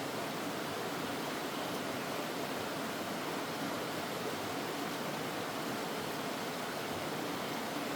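Mountain stream rushing steadily over rocks: an even, unbroken water noise.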